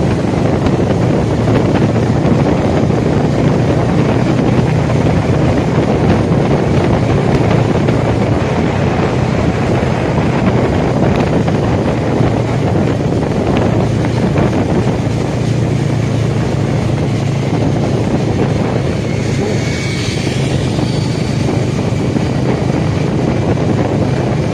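Motorcycle running on the road, heavy wind rushing over the microphone with a steady low engine drone underneath; a brief higher-pitched tone rises out of it about three-quarters of the way through.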